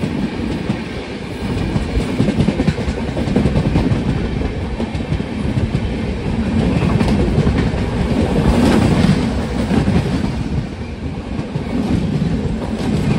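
Passenger train coaches rolling past close by on the adjacent track: a loud, steady rumble with wheels clattering over the rail joints, swelling and easing as the coaches go by.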